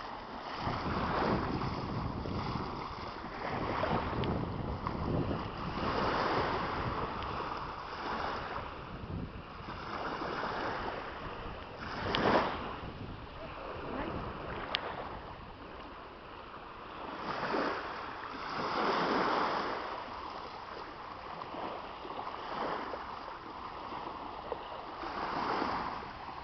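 Water washing in surges that swell and fall back every few seconds, with wind buffeting the microphone; one louder surge comes about halfway through.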